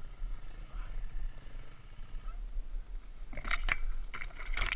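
Dirt bike engine idling at low revs with a steady low purr, and two short louder bursts in the second half.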